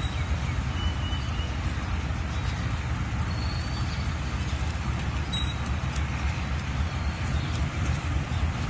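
AGE-30 diesel-electric locomotive engine running with a steady low rumble.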